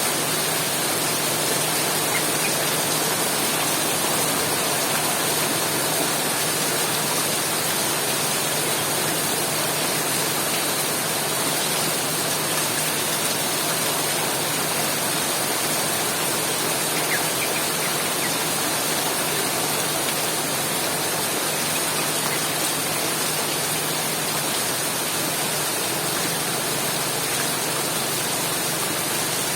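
Heavy rain falling steadily, an even unbroken hiss with no pauses or changes.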